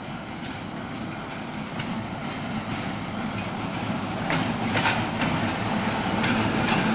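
ChME3E diesel shunting locomotive hauling one wagon, its engine running with a steady low hum and growing louder as it approaches. From about four seconds in, the wheels click sharply over the rail joints.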